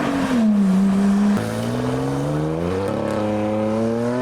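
Lotus Evora's V6 engine pulling away: the revs ease down at first, then after a sudden drop in level a lower engine note climbs steadily as the car accelerates.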